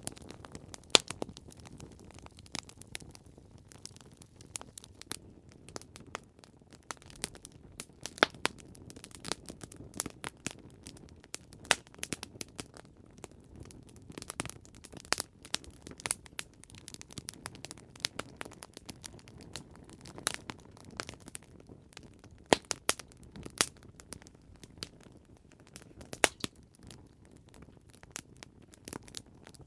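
Campfire crackling: irregular sharp pops and snaps of burning wood over a low steady rush of flame.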